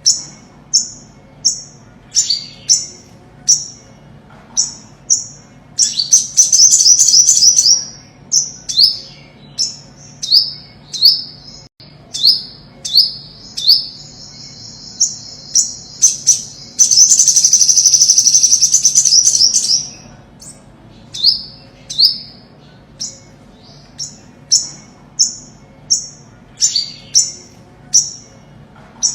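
Olive-backed sunbird song: a steady series of short, high, downward-slurred notes, about two a second, broken twice by longer high trills, the second lasting several seconds.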